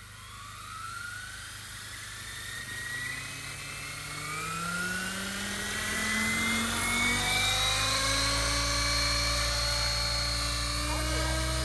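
Large radio-controlled helicopter spooling up: its motor and rotor whine rises steadily in pitch and grows louder, settling toward the end.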